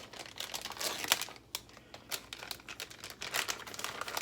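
Plastic bag of shredded cheese crinkling as it is handled, with dense, irregular crackles.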